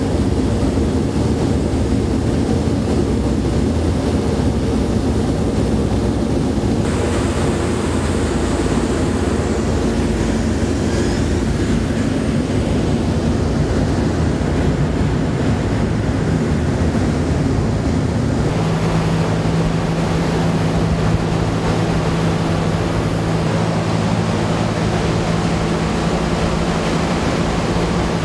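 Four Wright R-1820 Cyclone radial engines of a B-17 Flying Fortress running steadily, a loud continuous drone heard from aboard the aircraft. Its tone shifts about a third of the way in, and a steadier low hum comes in about two-thirds through.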